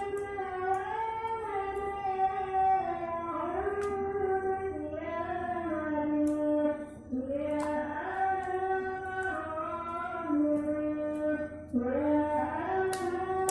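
A high voice singing a slow melody, holding long notes that step and slide between pitches.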